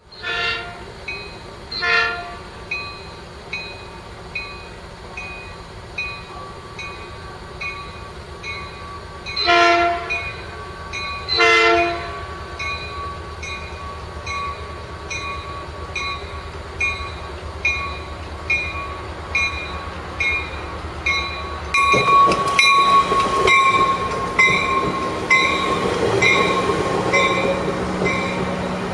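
Grade-crossing bells ding steadily while an approaching Metrolink commuter train sounds its horn four times: two blasts near the start and two more about ten and twelve seconds in. About two-thirds of the way through, the train rolls past with a louder rumble of wheels on rail and a whine that falls slightly in pitch.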